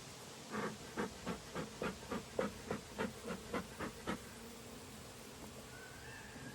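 A quick run of about a dozen soft strokes, three or four a second, over the first few seconds. After that, a honeybee buzzes close by toward the end.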